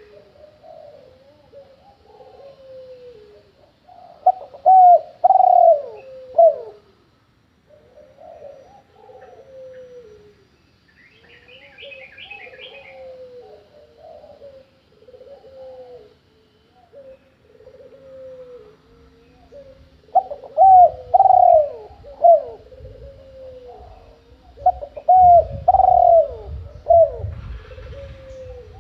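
Pigeons cooing over and over in low, rolling phrases, with louder, closer coos a few times. A brief higher twittering chirp comes near the middle, and a low rumbling noise runs under the last third.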